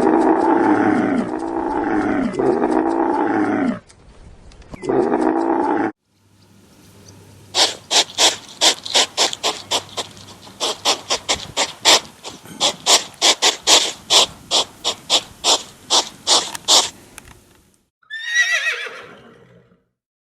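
A series of animal sounds. First a loud, wavering, pitched call in several pieces, then a run of sharp clicks or knocks at an uneven rhythm, then near the end a short call that falls steeply in pitch.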